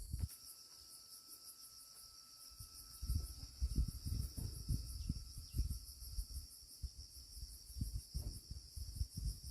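Crickets chirping in a steady, rapidly pulsing high-pitched chorus. From about three seconds in, irregular low rumbles come and go beneath it.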